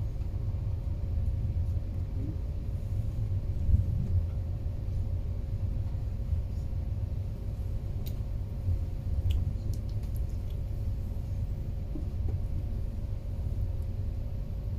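Passenger train running along the line, heard from inside the carriage: a steady low rumble with a faint constant hum, and a few faint ticks about two-thirds of the way through.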